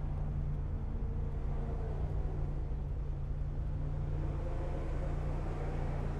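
Volkswagen Rabbit pickup's four-cylinder engine running steadily at low revs, heard from inside the cab.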